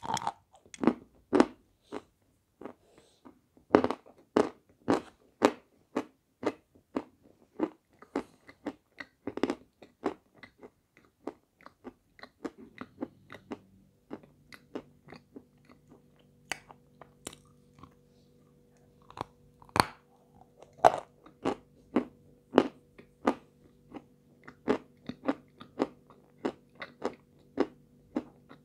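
Close-up crunching bites and chewing of a chunk of 'Shedevr', a dry white powder-coated piece, with sharp crunches every fraction of a second. About halfway through, a faint steady hum starts underneath.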